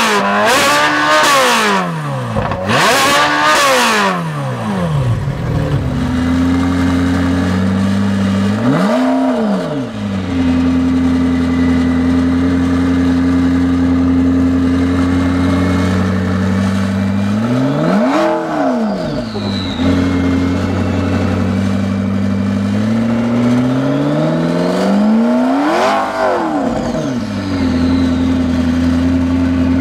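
Supercar engine with a modified exhaust, stationary and being free-revved. It gives several quick sharp blips at the start, then settles to a steady idle. Three separate revs follow, the last climbing more slowly to a high peak before dropping back to idle.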